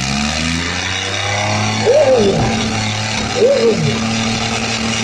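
Tractor diesel engines revving up over the first second, then holding a steady high pull under heavy load as two tractors strain against each other in a tug-of-war. Two short shouts cut in, about two and three and a half seconds in.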